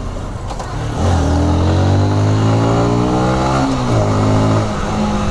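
Honda CBR125R's single-cylinder 125 cc engine pulling under throttle, its pitch rising steadily for almost three seconds, then dropping at a gear change and pulling again, with wind rushing over the helmet-mounted microphone.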